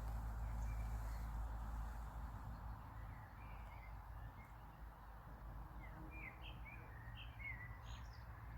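Small birds chirping in a string of short, quick notes through the second half, over a steady low rumble.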